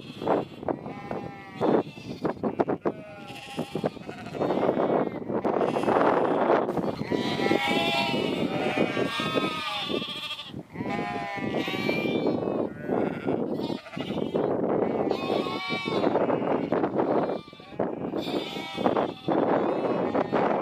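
A flock of sheep bleating continuously, many overlapping wavering calls at once, stirred up by a working sheepdog.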